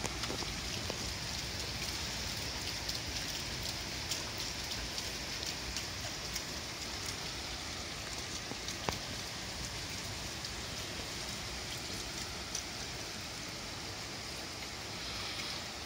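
Steady rain falling, with scattered drops tapping close by on a standing-seam metal roof; one sharper tap about nine seconds in.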